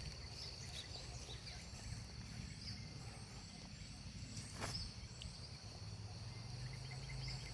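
Faint natural ambience: a steady high insect drone with short high bird-like chirps repeating over it, and a low rumble underneath. A single sharp click comes a little over halfway through.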